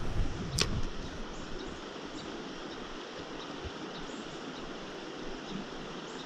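Steady rush of stream water running through riffles, with wind buffeting the microphone and a single sharp click in the first second.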